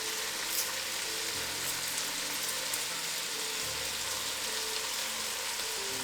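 Beef stew with tomatoes sizzling in a pot on the heat: a steady hiss with a few faint ticks.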